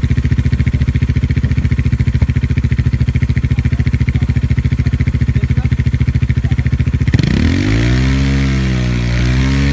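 Bajaj Dominar 400's single-cylinder engine idling with an even pulse of firing strokes, then revved up about seven seconds in, easing off briefly and rising again near the end.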